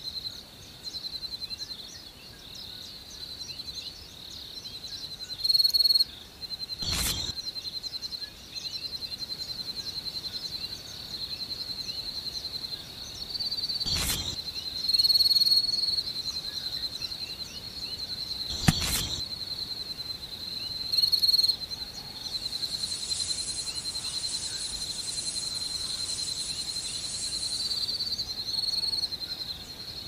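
Steady, fast-pulsing insect chirring like crickets, with short bird chirps over it. A few sharp clicks sound, and a brief hiss comes near the end.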